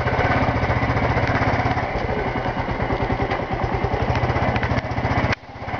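Yamaha YBR's single-cylinder four-stroke motorcycle engine running steadily under way, with a fast even pulsing. About five seconds in the sound drops off suddenly.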